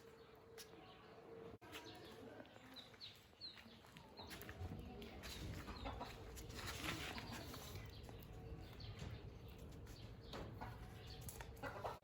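Several short, high, falling squeaks or chirps in quick succession about three seconds in, among faint rustling and clicks, from a small animal.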